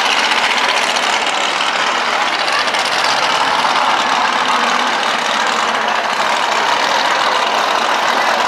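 Monster truck engine running loud and steady, a dense noise that holds without a break.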